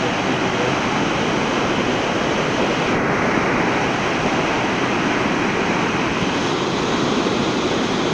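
Waterfall's falling water, a loud, steady rushing noise with no breaks.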